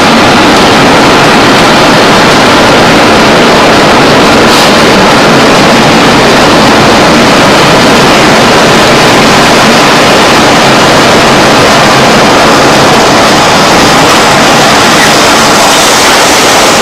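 Loud, steady roar of storm wind, without pitch or rhythm.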